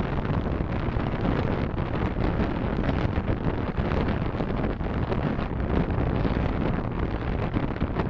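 Steady road and wind noise of a car on the move, picked up by a dashcam's microphone.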